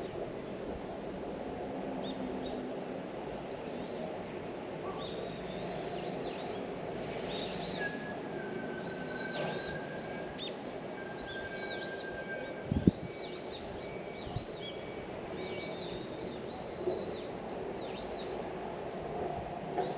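Birds chirping over and over with short up-and-down calls, over a steady low background rumble of outdoor noise. A single sharp knock sounds a little past the middle.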